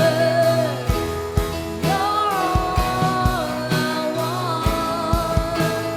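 Live worship band playing a slow song, with a held sung note that glides between pitches over drum beats.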